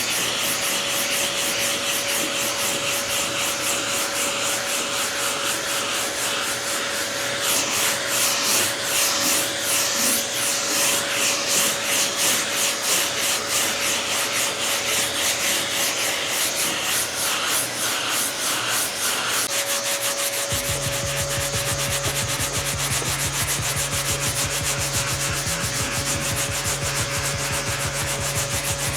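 Sandpaper, 80-grit, rubbed in repeated back-and-forth strokes to level body filler on a steel car fender, a continuous scratchy rasp. The strokes become more pronounced several seconds in, and a steady low hum joins about two-thirds of the way through.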